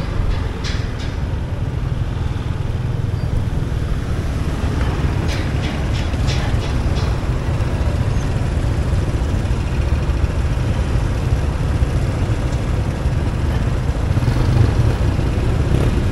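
Steady, loud low rumble of a motor scooter ride: engine, road and wind noise, with a few brief sharp sounds about five to seven seconds in.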